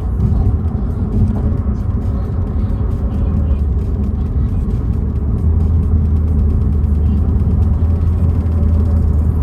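Car driving at a steady speed: a steady low engine drone with road noise, a little louder about halfway through.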